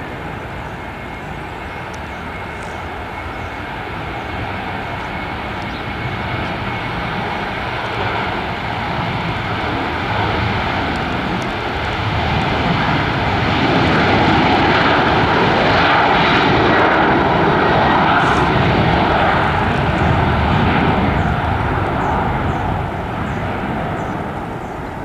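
Boeing 737-900's CFM56-7B turbofan engines at takeoff power, a loud steady roar with a faint high whine. It swells as the jet passes, is loudest a little past halfway through, and fades near the end.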